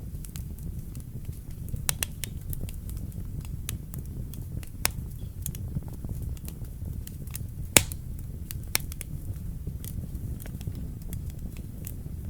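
Wood fire burning in a fireplace: a steady low rumble of flames with irregular crackles and pops, the loudest pop a little under 8 seconds in.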